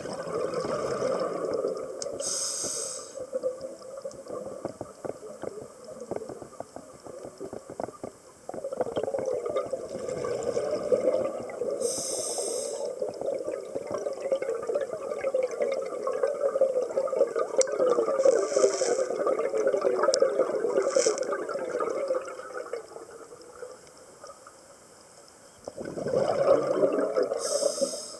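Scuba diver breathing through a regulator underwater: a short high hiss with each inhale, then long crackling rushes of exhaust bubbles, over several breaths.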